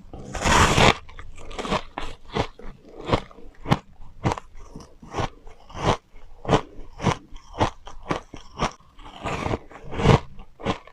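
Refrozen powdery ice bitten and chewed close up. A big soft crunching bite comes about half a second in, then steady crunches about twice a second as it is chewed, and another big bite near the end.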